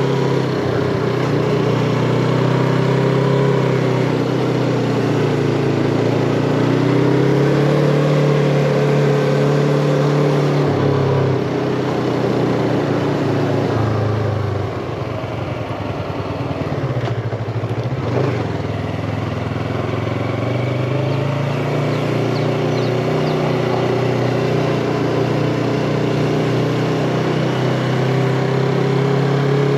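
Yamaha MT-25 motorcycle's parallel-twin engine running under way. Its note holds steady, eases down about halfway through as the bike slows, then climbs again as it picks up speed.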